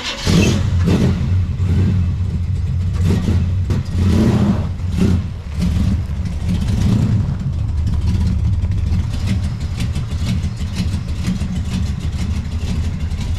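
A Chevrolet Chevelle SS's V8 engine starts up, revs several times over the first seven seconds or so, then runs steadily.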